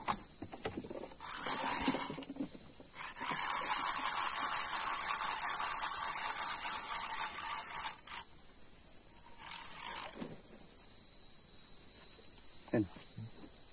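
Crickets chirring steadily, overlaid by bursts of loud, harsh noise: one about a second in, a long one from about three to eight seconds, and a shorter one near ten seconds.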